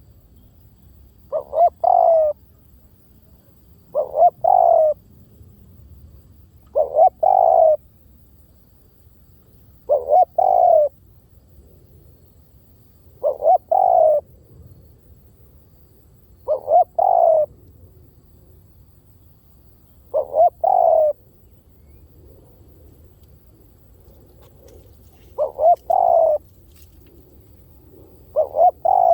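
Spotted dove cooing: a repeated phrase of a couple of short notes run into a longer coo, given nine times about every three seconds, with one longer pause past the middle.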